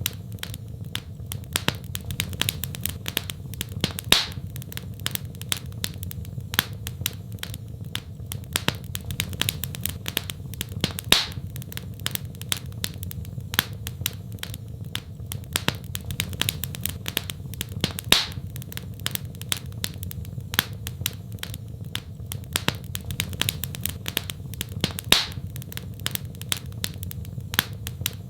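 Fireplace fire crackling: a dense run of small crackles, with a louder sharp pop about every seven seconds, over a steady low rumble.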